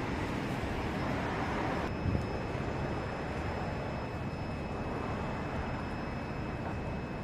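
Steady outdoor city ambience: an even rush of distant traffic and general urban noise with no distinct events. A faint steady high tone joins it about two seconds in.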